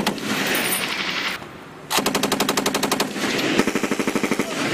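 Belt-fed machine gun firing automatic bursts: a burst ends right at the start, a short lull follows, then a longer rapid burst starts about two seconds in and runs on with more shots.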